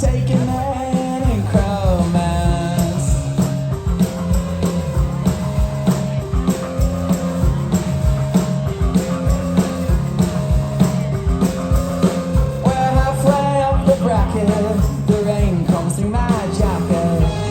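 Live rock band playing: drums, bass and electric guitars at full volume, with a sung vocal line coming in at times.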